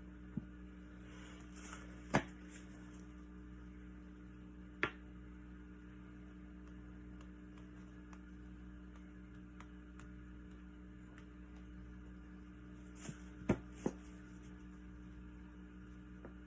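Steady low electrical hum with a few short, sharp taps or clicks, the loudest about two seconds in and a quick cluster of three near the end.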